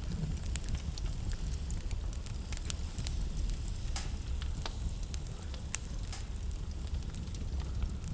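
Wood fire burning in a fireplace: steady low rumble of the flames with irregular sharp crackles and pops, a few louder pops standing out about four and six seconds in.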